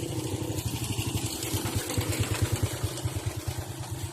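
Small engine, like a motorcycle's, running with a rapid steady low throb, a little louder in the middle.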